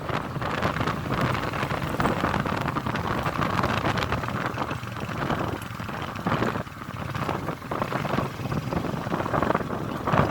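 A vehicle on the move: engine and road noise, with wind buffeting the microphone.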